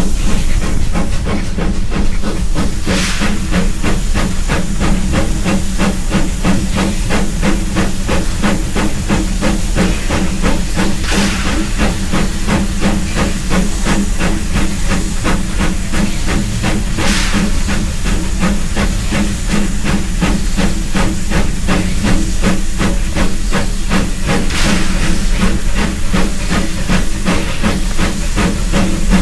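Steam locomotive running, close up: a steady loud hiss of steam over a low hum, with a rapid, regular pulsing throughout and a few brief louder surges of hiss.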